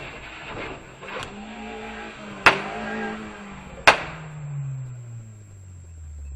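Car collision: two loud impacts about a second and a half apart, after a skid, followed by a low tone that falls in pitch.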